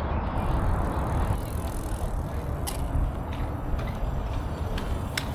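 Steady outdoor rumble of passing traffic or wheels on pavement, heaviest at the low end. A louder hiss passes in the first second or so, and a few sharp clicks fall later.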